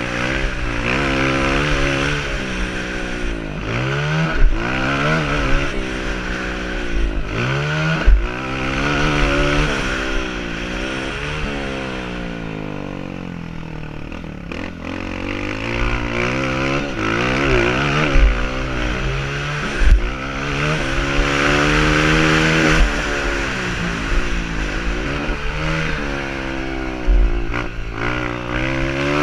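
Honda CRF230 dirt bike's single-cylinder four-stroke engine, revving up and dropping back over and over as the throttle opens and closes, with a lower, quieter stretch in the middle. A few sharp thumps come through the engine noise.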